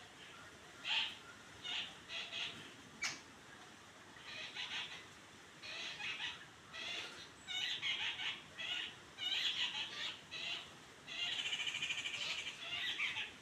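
Birds calling: a run of short, shrill calls, and a longer rapid trill a little before the end.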